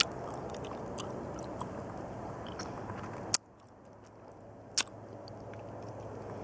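A person chewing a chili-mango chewy candy over a steady hiss, with a few sharp clicks. After the loudest click, about three seconds in, the hiss suddenly drops.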